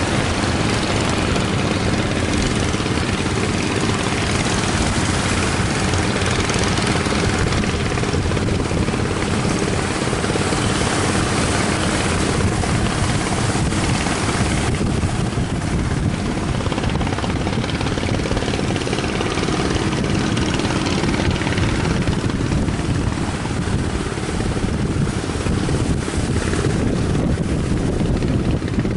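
Strong wind buffeting the microphone: a loud, steady rumbling roar that eases a little about halfway through.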